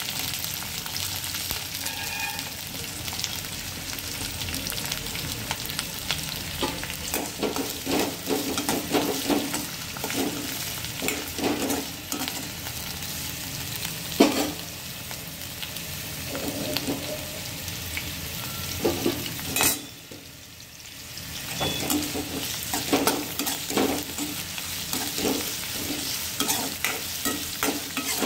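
Sliced onions and curry leaves sizzling in hot oil in a pan, with a spatula scraping and stirring them in runs of quick strokes. The sizzle briefly drops away about two-thirds of the way through.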